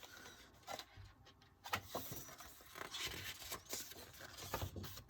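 Paper rustling and crinkling as a folded poster is handled, with scattered small clicks and taps.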